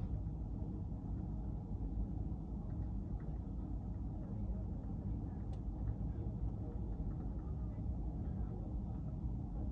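A car driving, with a steady low rumble of road and engine noise and a faint click about five and a half seconds in.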